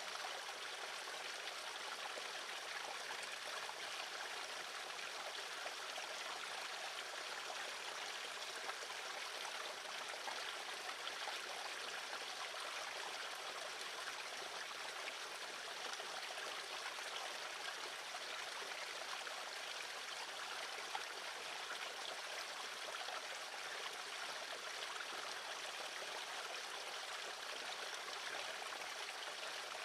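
Steady rushing noise like running water, even and unbroken, with no birdsong heard.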